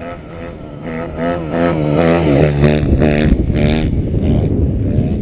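Motocross bike engine revving in quick, repeated throttle blips, its pitch swinging up and down and growing louder. From about four seconds in it turns into a rougher, noisier running sound.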